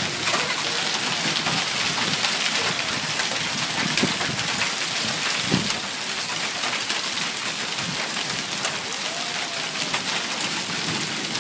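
Steady rain falling on surfaces, with scattered sharp ticks of drops striking.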